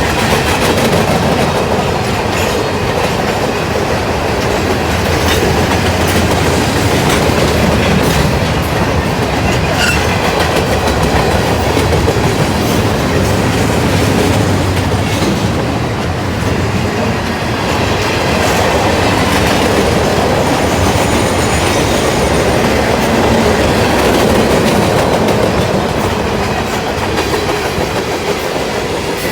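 Freight train cars rolling past steadily, wheels clacking over the rail joints, with the occasional faint wheel squeal.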